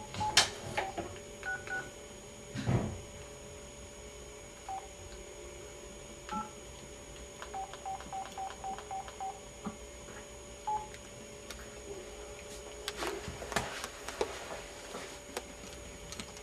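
Telephone keypad tones as a number is dialed: a few single beeps, then a quick run of about seven beeps, with a few handling knocks.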